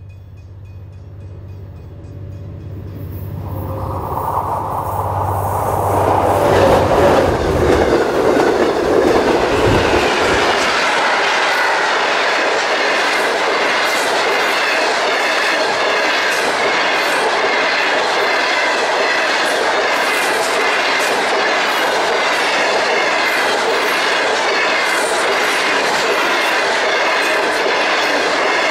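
A V/Line N class diesel-electric locomotive (EMD JT22HC-2) approaching with its commuter train: a steady engine drone under a rumble that grows louder over the first several seconds. Then a long passenger train's steel cars roll past steadily, the wheels clicking over the rail joints.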